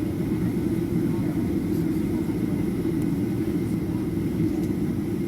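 Boeing 737-800's CFM56 jet engines at idle, heard from inside the cabin as a steady low rumble with a faint steady whine above it.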